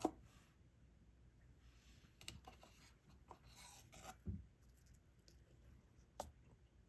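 Faint, scattered small clicks and light scraping of a diamond-painting pen picking up resin drills and pressing them onto the sticky canvas, with a soft thump a little after four seconds.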